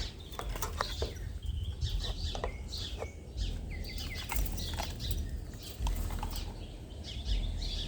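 Birds chirping here and there in short, scattered calls over a steady low rumble.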